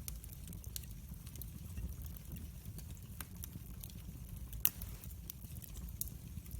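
Wood fire crackling in a fireplace: scattered sharp snaps and pops over a steady low rumble, with one louder pop about two-thirds of the way through.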